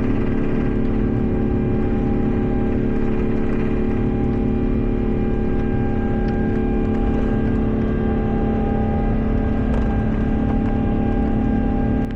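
Airliner jet engines running steadily at high power, heard inside the Airbus A350-900 cabin: a loud, even drone with several held hum tones.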